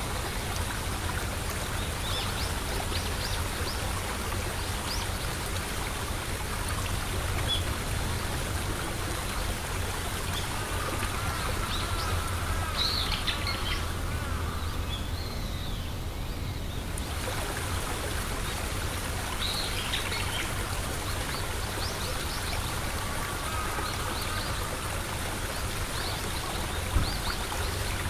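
Steady rush of flowing stream water, with birds chirping now and then and a single knock near the end.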